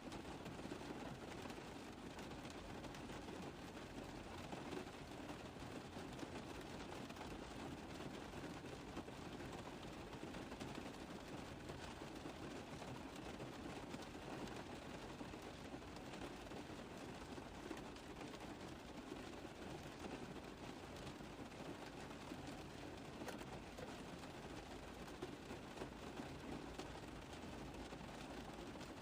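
Steady rain pattering on a car roof: a dense, even stream of small drop impacts without let-up.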